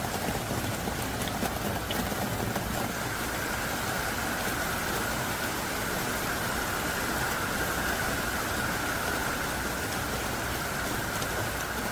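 Heavy, pounding downpour: an even, steady rush of rain.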